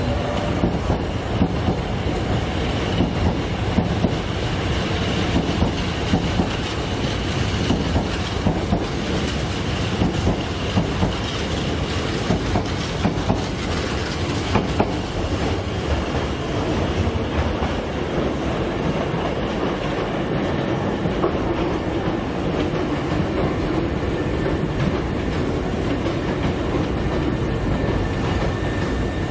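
Hankyu 7300/8300-series eight-car electric train running, a steady rumble with the wheels clacking over rail joints and a faint high tone through the first half.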